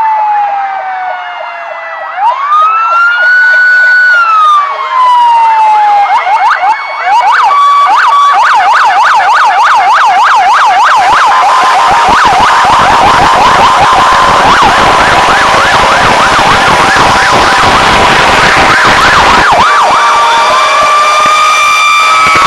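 Fire truck sirens: a wail that falls, rises and holds, then falls again, switching to a fast yelp that goes up and down about three times a second, and back to a rising wail near the end. A louder rushing noise joins underneath about halfway through.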